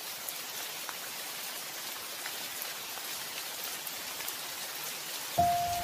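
Steady rain falling, an even hiss with scattered faint drop taps. Near the end a single sustained musical note comes in.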